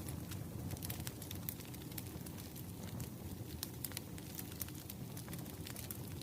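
Crackling wood fire: many irregular sharp pops and snaps over a steady low rumble of burning.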